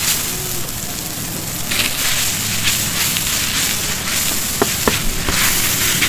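Stir-fried short noodles (lort cha) with bean sprouts sizzling in a hot pan while a metal spatula and fork toss and scrape them, with a few sharp metal clinks, two of them close together a little past the middle.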